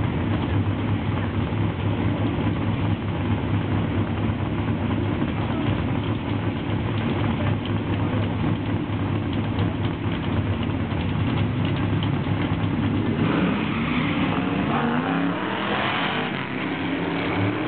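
Two drag-racing cars idling at the starting line with a steady low engine rumble. About thirteen seconds in, they launch, and the engines rev up hard, climbing in pitch twice as they accelerate away down the strip.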